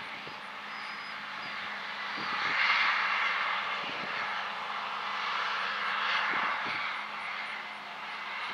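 Heavy harvest machinery running with a steady engine drone and a high whir, swelling louder twice.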